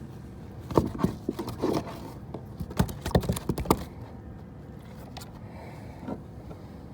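A quick run of irregular knocks and taps, loudest between about one and four seconds in, with one more knock near the end, over a faint steady background.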